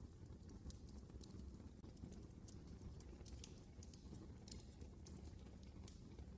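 Wood fire crackling in a fireplace: quiet, irregular sharp pops and snaps, several a second, over a low steady rumble.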